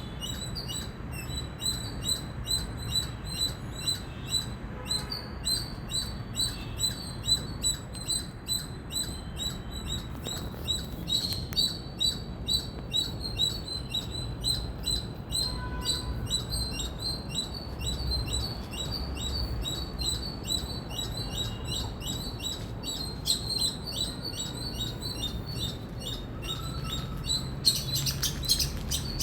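Indian palm squirrel calling: a long run of sharp, high-pitched chirps repeated a few times a second, bird-like, growing denser and louder near the end, over a low background rumble.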